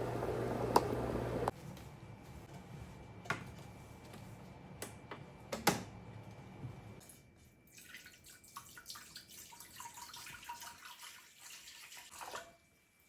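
Running water that stops abruptly about a second and a half in, then a few sharp clicks, and later a run of small clinks and drips.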